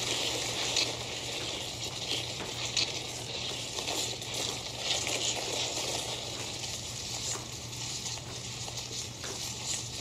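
Soft rustling of clothing and light shuffling of shoes on a hard floor as several people swing their arms and step in place, with faint irregular ticks over a steady low room hum.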